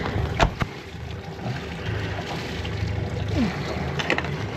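Boat engine running at low revs with a steady low rumble while the yacht is held for mooring. Two sharp knocks come about half a second in.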